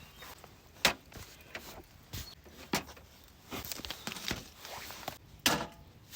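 A series of irregular sharp knocks and clatters, the three loudest about a second, three seconds and five and a half seconds in, with lighter taps between.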